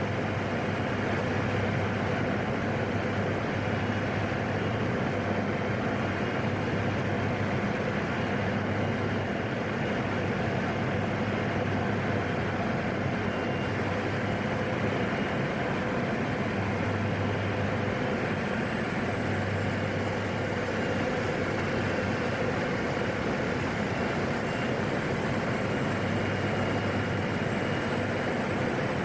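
Steady drone of a PAC 750XL's PT6A turboprop engine and propeller heard inside the cockpit, with a thin high whine held over it.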